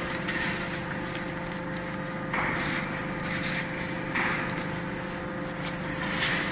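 Enerpat VB 30S baler's hydraulic power unit running with a steady hum, broken by a few short bursts of hiss-like noise.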